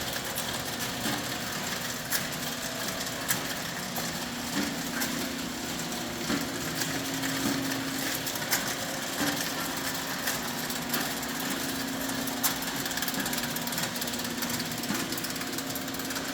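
Food-processing lift-out conveyor running: a steady motor hum with sharp clicks and knocks at uneven intervals.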